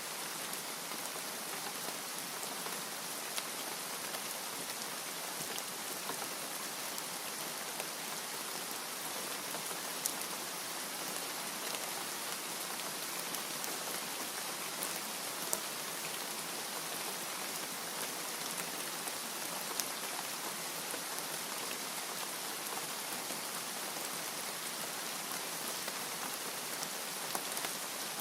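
Steady rain falling, an even hiss with the odd louder drop ticking out of it now and then.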